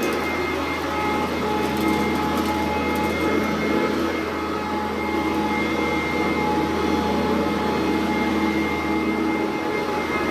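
Sanitaire SC899 upright vacuum cleaner running steadily, a constant motor hum with a steady whine on top.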